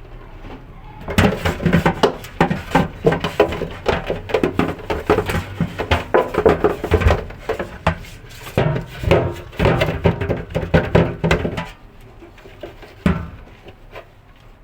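Fridge parts being handled and washed: a dense run of irregular knocks and rattles lasting about ten seconds, dying down near the end with one more knock.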